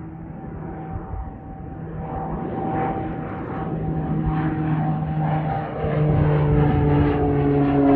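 Navy T-6 Texan II turboprop trainers, Pratt & Whitney PT6A engines and propellers, droning with a steady hum that grows louder as they approach, its pitch dipping slightly near the end as they pass.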